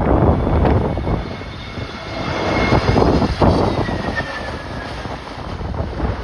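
Jet airliner engines whining as an aircraft passes, the high whine falling slightly in pitch midway, under heavy gusts of storm wind buffeting the microphone.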